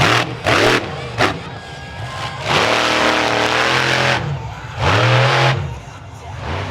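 Monster truck engine revving in bursts: three quick blips in the first second and a half, then a long loud rev of nearly two seconds and another shorter one near the end.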